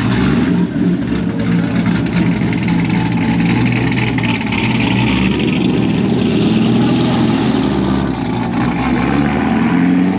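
Car engines running, with an engine note climbing in pitch near the end as one revs up.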